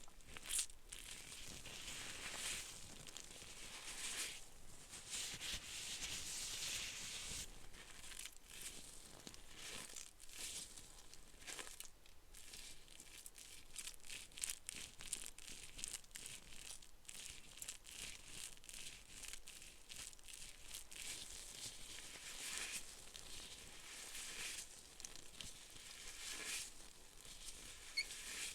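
Soft, continuous crinkling and rustling with many small crackly clicks, swelling and fading every few seconds: something being slowly handled or crumpled close to the microphone.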